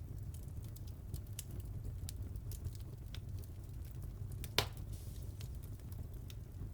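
Wood fire crackling: scattered small pops over a steady low rumble, with one sharper, louder pop about four and a half seconds in.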